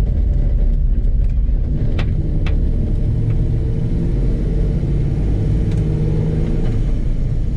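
Cammed LS V8 in a 1985 Chevy K10 pickup, with headers and Flowmaster dual exhaust, running under way as heard from inside the cab, its pitch shifting a little as the throttle changes. Two sharp clicks about two seconds in.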